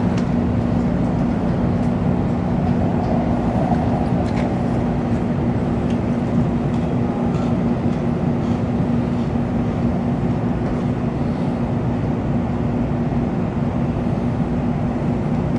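Steady running noise inside the passenger cabin of an N700-series Shinkansen, an even rush with a low two-note hum underneath.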